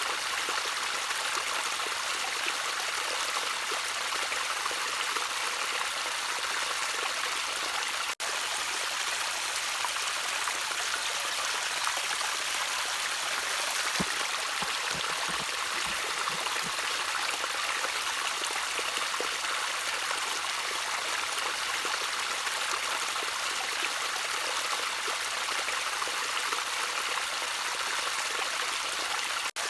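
Gentle trickling water, a steady hiss of running stream water with a few low gurgles about halfway through. The sound drops out for an instant twice.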